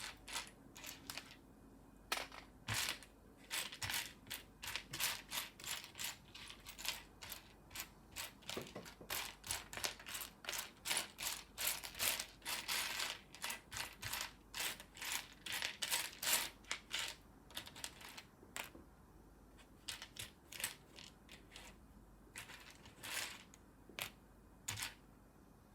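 Small loose plastic Lego pieces clicking and rattling against each other as a hand rummages through a pile of them, in quick runs of sharp clicks with short pauses.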